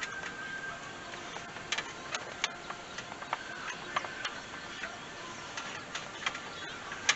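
Irregular sharp clicks and taps of hand tools against metal, from work on the coolant hoses and clamps at a truck's water pump.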